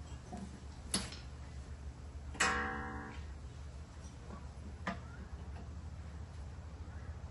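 Metal tools clicking against metal parts: a few sharp clicks, and one loud metallic clank about two and a half seconds in that rings for about half a second, over a steady low hum.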